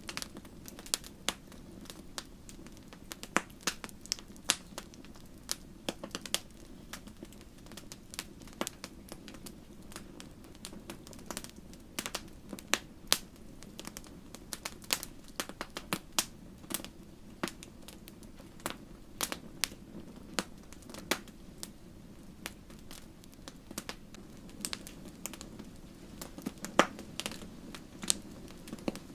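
Wood fire crackling: irregular sharp pops and snaps, several a second, over a steady low hiss.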